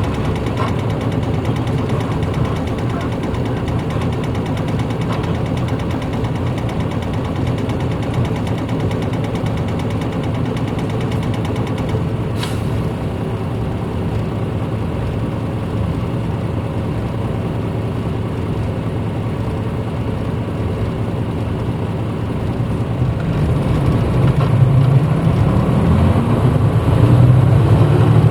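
1994 Hino Blue Ribbon city bus heard from inside the cabin: the engine runs steadily at low revs. About 23 seconds in, its note rises and grows louder as the bus pulls away at mid revs. A single sharp click comes about halfway through.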